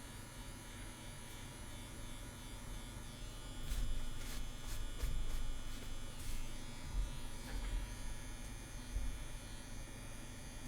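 CNC WE pen-style rotary tattoo machine running steadily at 8 volts with an 11 round liner needle cartridge, a continuous motor buzz. A few short clicks and low knocks come through between about four and six and a half seconds in.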